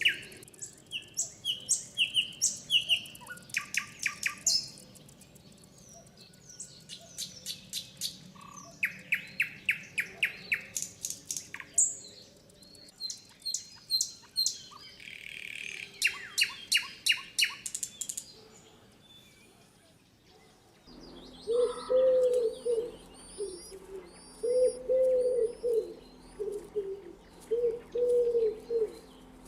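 Birds calling: rapid runs of high chirps and trills. About two-thirds in the sound changes abruptly to low, repeated calls with thin high notes above them, over a steady low hum.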